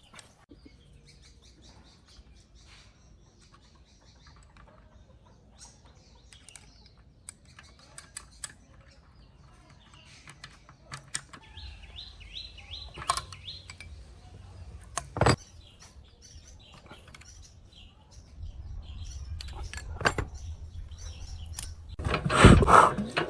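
Scattered sharp clicks and taps of hand work on metal tiller parts, with birds chirping in the background. Near the end come louder, noisy bursts of handling.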